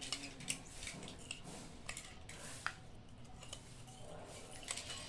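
A spoon stirring milk in a glass bowl, with irregular light clinks and taps against the glass.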